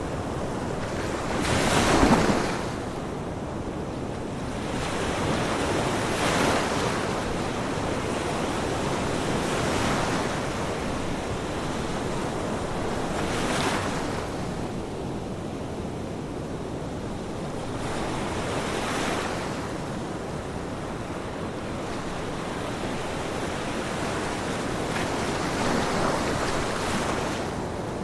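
Ocean waves breaking on a shore in slow swells every few seconds, the first near the start the loudest, each washing in and fading.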